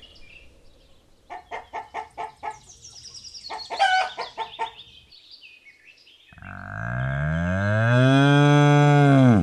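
Rooster clucking in a quick series of short calls, then, about six seconds in, a bull's single long, deep moo that rises and then falls in pitch.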